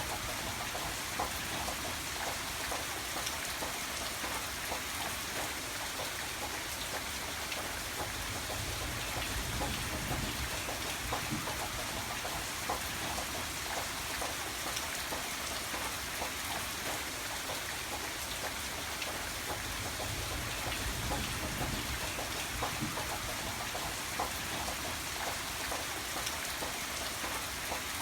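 Steady rain falling, with many individual drops ticking on a surface amid an even hiss.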